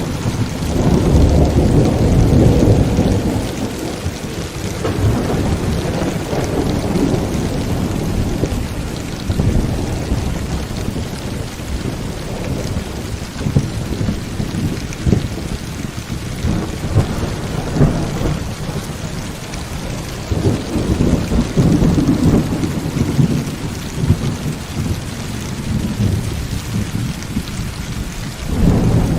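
Heavy rain falling steadily, with rolling thunder. The thunder swells loudest about a second or two in and again about two-thirds of the way through, with another rumble starting near the end.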